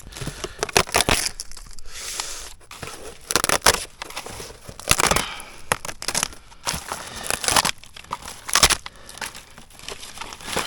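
Irregular rustling, crinkling and crunching from things being handled or broken up by hand, in bursts of about a second with short pauses between them.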